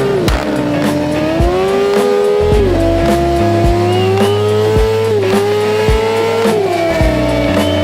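Motorcycle engine accelerating hard through the gears: the engine note climbs steadily and drops sharply at each upshift, three times, about a third, two thirds and five sixths of the way through. Background music with a steady beat plays under it.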